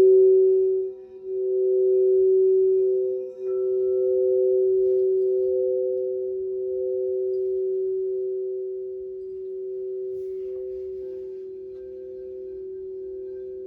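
Crystal singing bowls ringing together in two sustained tones that waver with a slow, pulsing beat. They swell in the first few seconds, then slowly die away.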